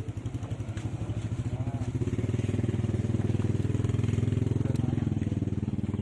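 Drag-racing motorcycle engine running at low revs with a rapid, even putter, growing louder about two seconds in and easing off a little near the end.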